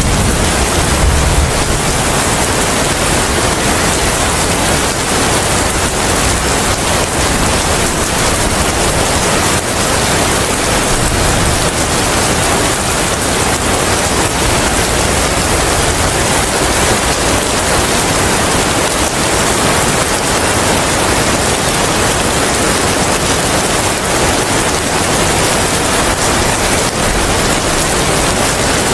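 Steady rain with wind, an even hiss throughout. A low rumble at the start fades out about a second and a half in.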